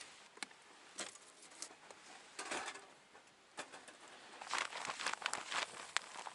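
Wood fire burning in a Snow Peak fire pit, crackling and popping: irregular sharp pops with a couple of denser crackling stretches, the busiest about two thirds of the way in.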